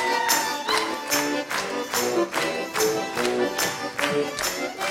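Garmon (Russian button accordion) playing a lively chastushka dance tune in chords, over a steady beat of sharp strikes about two and a half times a second.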